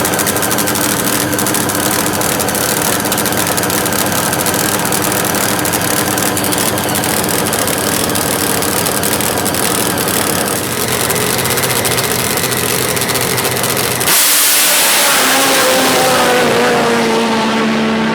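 Drag-racing motorcycle engines running steadily, then about fourteen seconds in the sound changes suddenly to a louder, hissing engine note whose pitch falls.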